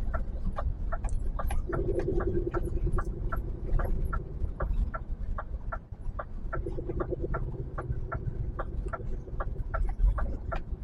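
HGV cab turn-signal indicator ticking steadily, about three clicks a second, over the low rumble of the idling truck engine. A steady hum comes in about two seconds in, drops out near the four-second mark and returns briefly later.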